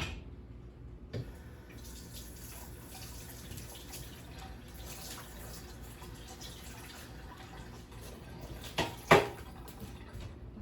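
Kitchen faucet running while a spoon is rinsed under it, with one sharp clank near the end, the loudest sound.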